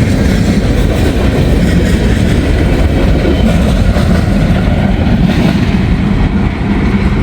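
Empty steel gondola cars of a freight train rolling past, with a steady rumble and clatter of wheels on the rails. Wind is buffeting the microphone.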